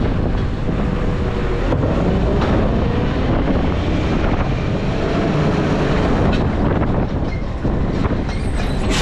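Garbage truck underway: a steady heavy rumble with rattling and clattering.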